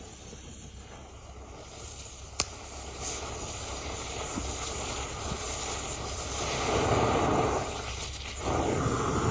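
Oxy-fuel cutting torch flame hissing steadily and getting louder, breaking off briefly about eight seconds in before it resumes, with a single click a couple of seconds in.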